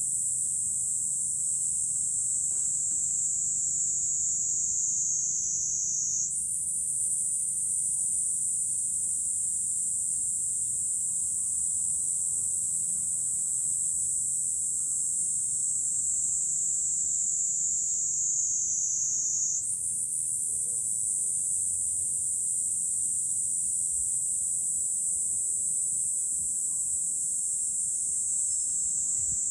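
A dense chorus of cicadas singing: a continuous high-pitched shrill buzz that slowly sinks in pitch and jumps back up twice, about 6 seconds and 20 seconds in.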